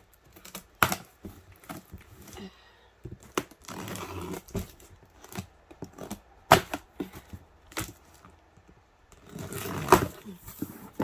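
Packing tape being torn off the seams of a cardboard box, in several rasping pulls with sharp cracks of cardboard between them.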